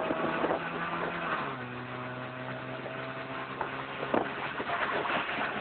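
2002 Ford Focus ZTS's 2.0-litre four-cylinder, fitted with a 4-2-1 header, 2¼-inch exhaust and cold air intake, pulling hard at high revs, heard inside the cabin. About a second and a half in, its pitch drops as it shifts up a gear, and it pulls on at lower revs, with a few knocks or rattles later on.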